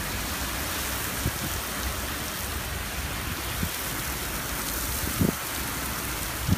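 Torrential rain pouring down in a steady, even hiss, with a few brief low thumps.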